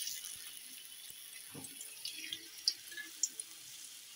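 Pieces of elephant foot yam frying in hot oil in a kadai: a steady sizzling hiss with scattered small pops. Another piece is added partway through.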